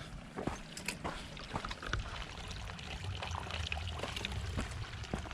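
Small mountain creek trickling over rocks, a steady watery rush with scattered faint ticks.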